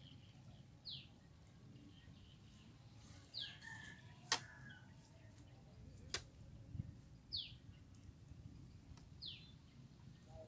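A bird repeating a short, falling whistled call about every two seconds. Two sharp clicks come in between, about four and six seconds in.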